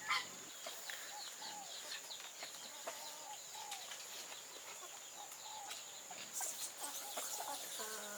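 Chickens clucking: a scattering of short calls, one after another.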